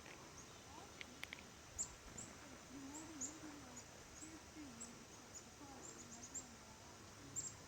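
Faint, high, short chirps of small wild birds, scattered all through and coming several times a second at times. A soft wavering low hum runs underneath in the middle.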